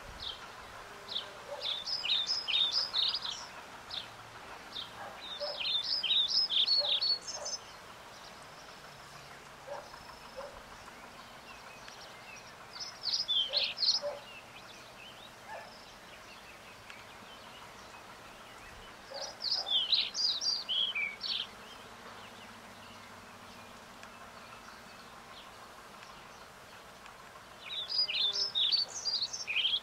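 A songbird singing in repeated phrases of quick high chirping notes, about five phrases a second or two long with quiet gaps of several seconds between them, over faint outdoor background.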